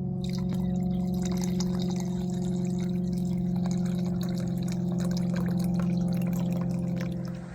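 Water running or pouring with a fine spattering crackle, over a steady low drone of several held tones. Both cut off abruptly near the end.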